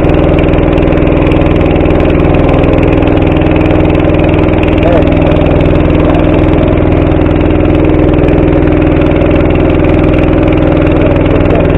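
Small boat's motor running steadily at an unchanging pitch.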